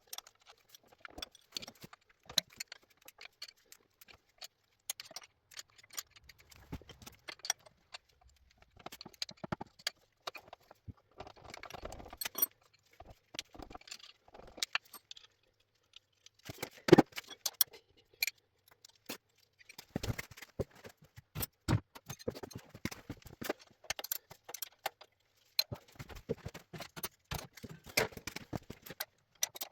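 Metal hand tools clinking and clicking irregularly against metal motorcycle parts during dismantling, with a sharper knock about 17 seconds in.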